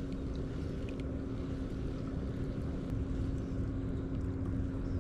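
A steady engine drone: a constant hum over low rumbling noise, with a few faint ticks here and there.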